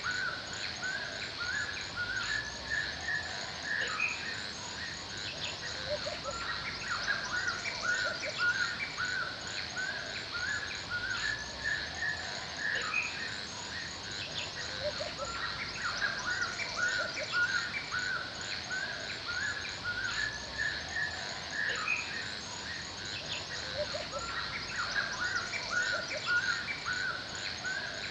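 Forest bird chorus: many birds chirping and calling over one another, with quick repeated high chirps and occasional lower calls, over a steady faint background hiss.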